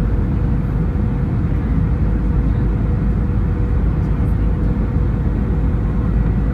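Steady jet airliner cabin noise from engines and airflow, with a thin steady hum running through it.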